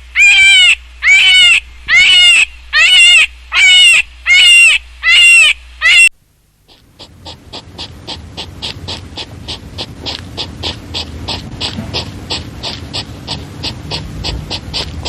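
Wild animal calls: a run of about nine loud, arching calls about two thirds of a second apart, then, after a brief pause, a fast series of short clicking calls, about three to four a second, over a low rumble.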